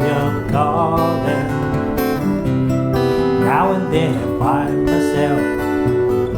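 Acoustic guitar strummed steadily, playing the accompaniment of a folk song.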